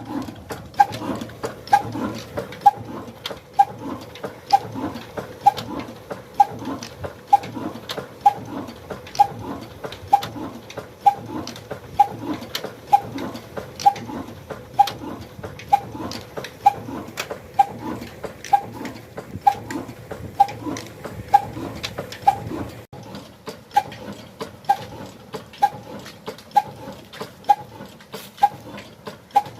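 Old Ruston single-cylinder 'kala' (black) diesel engine running slowly with an even, chugging exhaust beat, about two beats a second, with a stronger beat about once a second.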